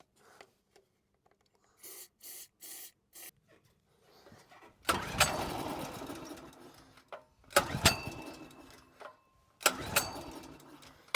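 A Zipper ZI-STE3000 petrol generator's engine being pulled over on its recoil starter three times, each pull a sudden burst of cranking noise that trails off over about two seconds. The ignition fires after the starting spray, but the engine does not keep running.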